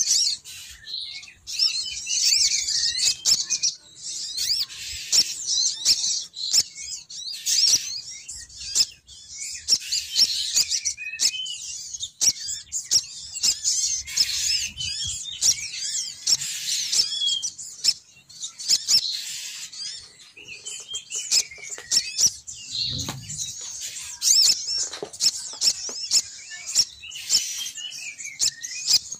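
Female sogon bird's lure call: dense, rapid high chirping with repeated lower warbling phrases and sharp clicks, used to draw males down.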